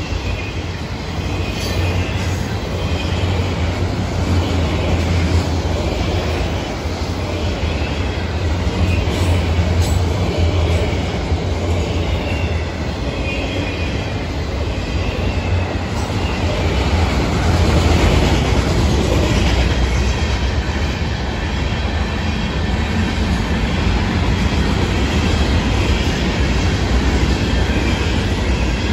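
Freight cars of a Florida East Coast train rolling past close by: a steady heavy rumble of steel wheels on the rails, with clicks and some faint wheel squeal, swelling a little about two-thirds of the way through.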